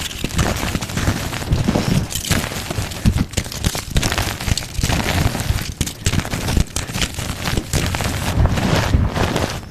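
Gym chalk (powdered or block lifting chalk) being crushed and crumbled close to the microphone: a continuous run of dense crunches and crackles.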